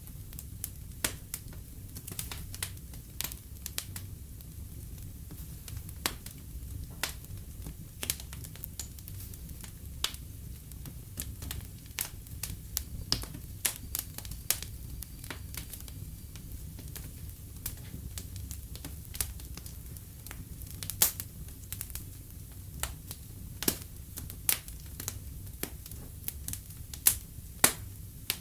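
Wood fire crackling in a fireplace: irregular sharp pops and snaps over a steady low rumble of the flames, with a few louder pops in the second half.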